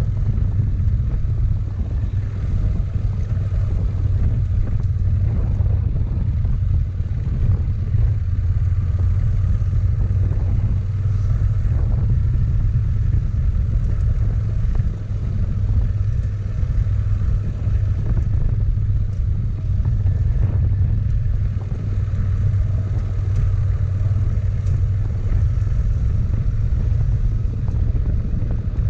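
Motorcycle engine running steadily while riding, a continuous low rumble with no changes in pitch.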